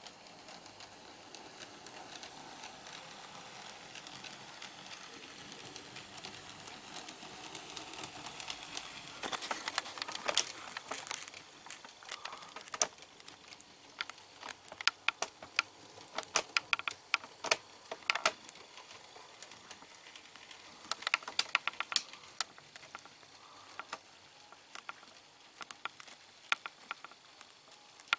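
00 gauge model train running on handbuilt track: a faint, steady motor whirr builds up, then from about a third of the way in come irregular clusters of sharp clicks and rattles as the wheels run over the track.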